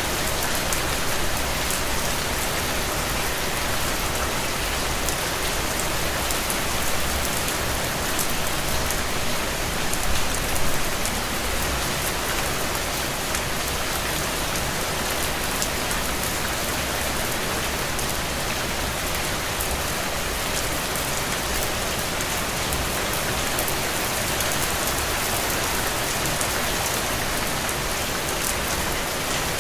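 Steady rain falling and pattering on a window, a dense even hiss with individual drop ticks.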